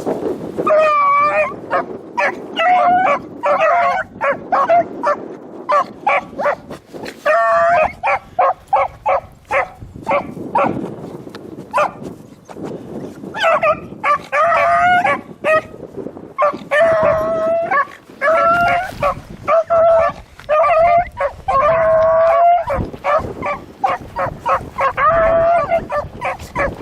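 Beagles baying on a rabbit's track: runs of short, ringing bays, some drawn out, broken by brief lulls. Strong wind rushes on the microphone underneath.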